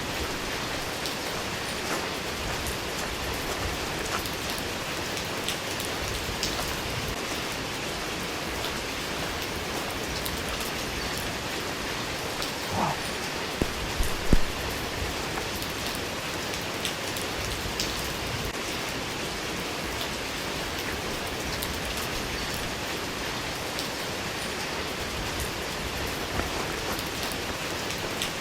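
Steady rain falling on a hard surface, with scattered drops ticking throughout and a few louder knocks about halfway through.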